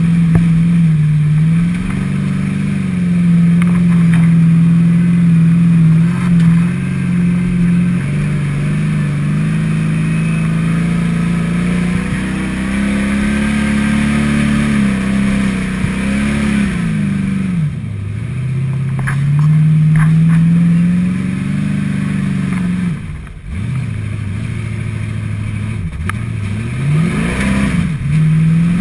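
Stock car engine running hard under throttle, heard from inside the cockpit as the car is driven across a field. Its pitch holds steady for long stretches, then in the second half drops sharply and climbs again several times as the driver lifts off and gets back on the throttle.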